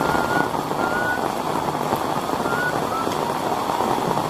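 Heavy rain falling steadily: a dense, even hiss of downpour. A few brief high whistling notes sound over it in the first half.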